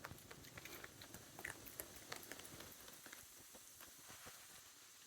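Faint crunching and clicking of a wild animal chewing peanuts, mostly in the first three seconds.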